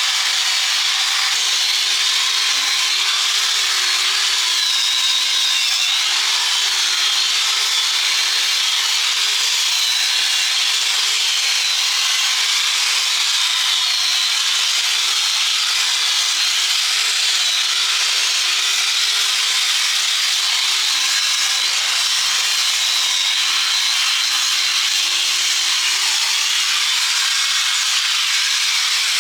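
Handheld electric angle grinder working on rusted steel: a steady, hissing grind whose motor pitch wavers slightly as the load on it changes.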